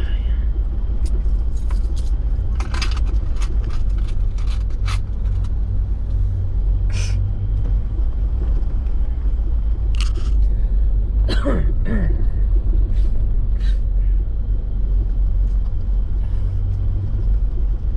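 In-cabin rumble of a 4x4 truck driving slowly on snow-covered road, a steady low drone of engine and tyres. Scattered sharp clicks and crackles, and a brief falling squeak about two-thirds of the way through.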